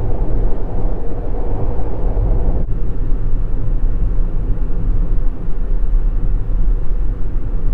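Steady low road and engine rumble inside the cabin of a moving Mitsubishi Delica Mini. The upper part of the rumble drops off abruptly about a third of the way in.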